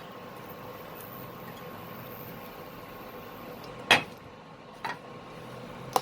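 A steady background hum and hiss. About four seconds in, a cooking utensil knocks sharply once against the pan, with a lighter tap a second later.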